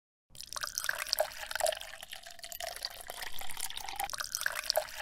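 Water trickling and dripping with many small, quick splashes, starting suddenly after a brief silence.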